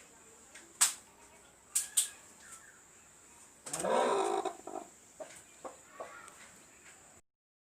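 Domestic chickens calling, with a few sharp clicks early and one louder, rising call about four seconds in; the sound cuts off abruptly near the end.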